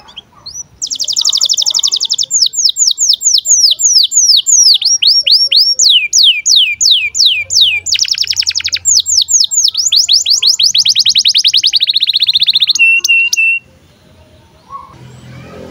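Male domestic canary singing a long, loud song of rapid trills and fast-repeated downward-sweeping whistled notes, switching between phrases every few seconds. It ends with three short notes and breaks off a little past two-thirds of the way through.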